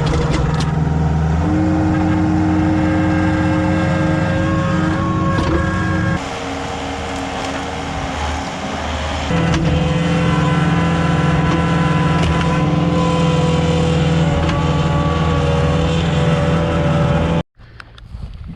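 Skid steer's diesel engine running steadily at high throttle, working the splitter. It eases off for about three seconds about a third of the way in, then picks back up, and cuts off suddenly near the end.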